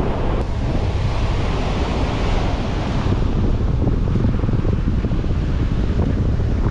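Wind buffeting the microphone over the wash of sea waves.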